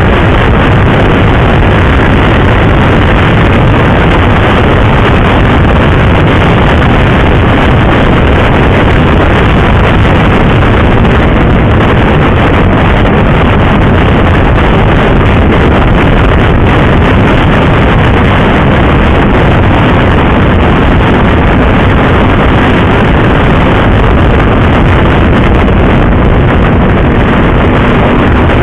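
Heavy, steady wind rush over the microphone of a motorcycle at speed, with the engine's drone faintly underneath.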